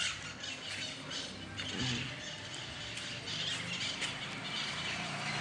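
A flock of small birds chirping and twittering, many short high calls overlapping.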